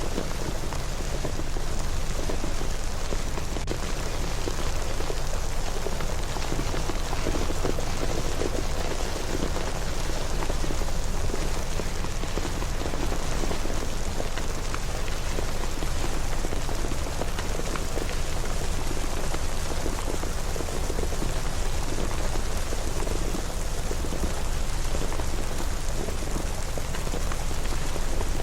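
Steady rain falling, a dense even patter of drops with fine scattered ticks, and a low rumble underneath.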